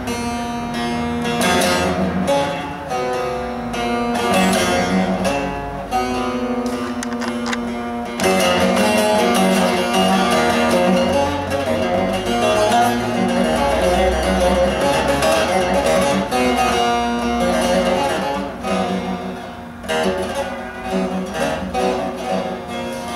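Bağlama (saz) with a carved mulberry bowl being played: a fast picked melody over a steady ringing low note, growing busier and louder about eight seconds in.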